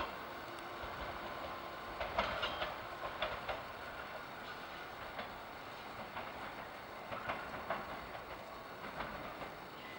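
KuMoYa 143 electric service car running on the track, with a steady rolling noise and irregular groups of clicks as its wheels cross rail joints, a cluster about two seconds in and more near the end.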